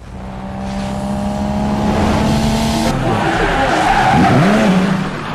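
Car sound with tyres squealing: steady engine-like tones at first, then the squeal wavers and bends down and back up in pitch a few seconds in.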